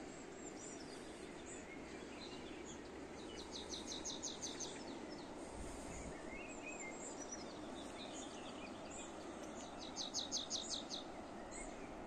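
Outdoor birdsong over a steady background hiss: a songbird twice sings a quick run of about eight rapid repeated notes, a few seconds in and again near the end, with scattered chirps from other birds in between.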